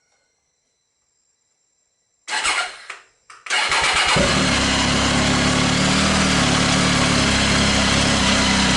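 A Triumph Tiger 800's three-cylinder engine being started warm through a Fuel Diablo carbon slip-on muffler with its baffle in. There is a short burst of starting about two seconds in, a brief dip, then the engine catches and settles into a steady idle.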